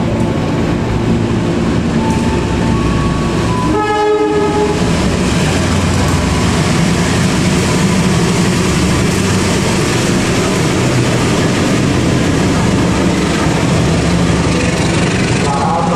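A train running through the station, a loud steady noise of wheels on rail, with a short horn blast about four seconds in.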